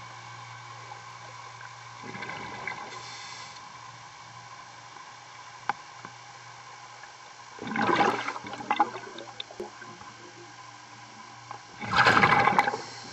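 Scuba diver's regulator exhaust: bursts of bubbling rush from exhaled breaths, three times, about four seconds apart, the last two the loudest. Under them runs a steady machinery hum carried through the water.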